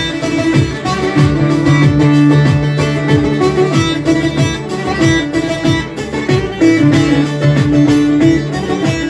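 Instrumental interlude of a Turkish folk song: plucked string instruments playing a melody over a steady beat, with a bowed string instrument joining in.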